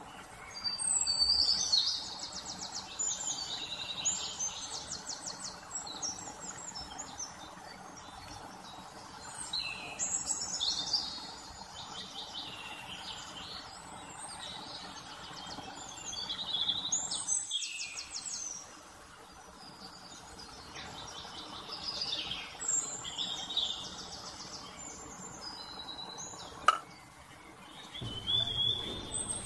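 Birds singing: high, fast trilled phrases repeat every few seconds over a steady low hiss, with one sharp click near the end.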